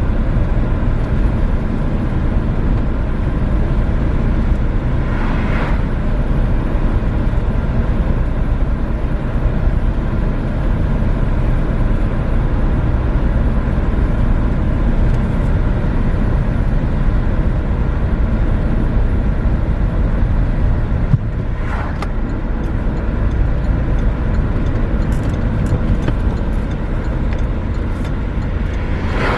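Renault Megane III driving, with a steady low rumble of engine and road noise. Two short higher-pitched sounds come through, about five seconds in and again about twenty-two seconds in.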